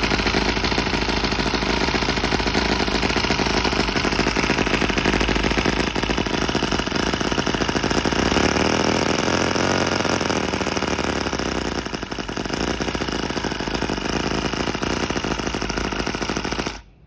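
Miniature V-twin model engine (Hoglet H08) running steadily with a dense, even chatter, its note shifting a little around the middle. It cuts off shortly before the end.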